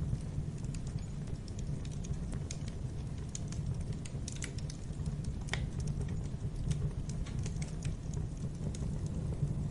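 Wood fire crackling in a fireplace: scattered sharp snaps and pops over a low steady rumble, with one louder pop about five and a half seconds in.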